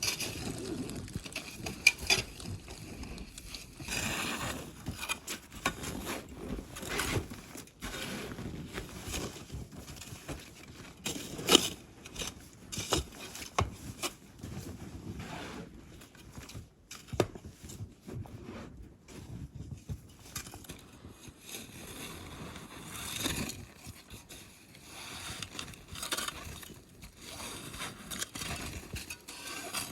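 Heavy wet snow being scraped and pushed off a tarp shelter roof: irregular scrapes, brushing and soft knocks, with one sharp knock a little under halfway through.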